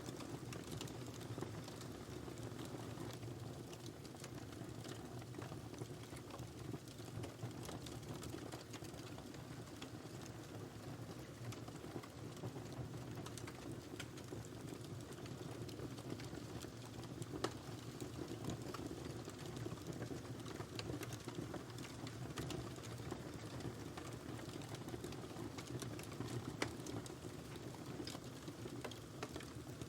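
Wood fire burning in a fireplace, with a steady low rush of flame and frequent small crackles and pops scattered throughout, a couple of sharper pops standing out.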